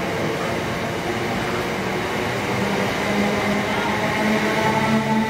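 Greater Anglia electric multiple-unit train passing through the station at speed, a steady rumble and rush of wheels on rail with a hum of several tones in it that edges up in pitch near the end.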